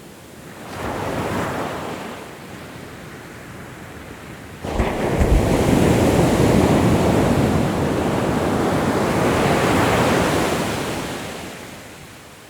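Ocean waves breaking on a shore. A small wave rushes in about a second in, then a bigger wave crashes suddenly and washes up for several seconds before fading near the end.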